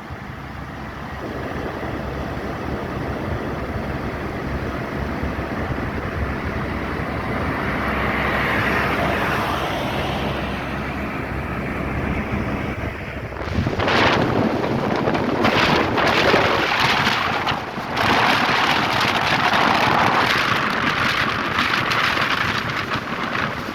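Rain with wind rumbling on the microphone. About 13 s in, the rain turns suddenly louder into a steady hiss.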